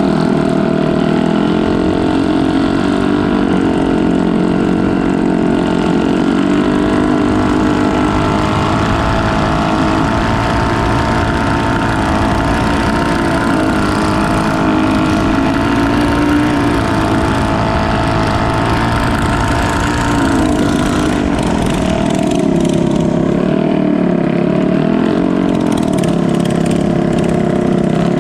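A canal boat's engine running loud and steady, its pitch drifting slowly up and down as the throttle changes.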